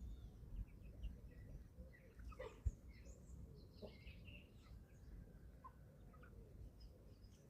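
Faint, scattered short chirps and peeps from a group of 11-week-old chicks while they feed, with a single low thump about two and a half seconds in.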